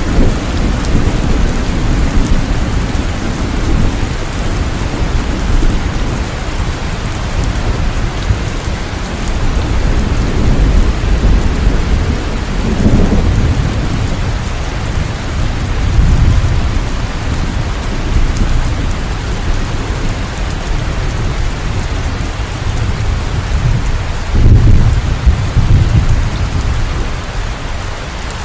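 Steady rain, with low rumbles of thunder swelling up a few times, the strongest near the end.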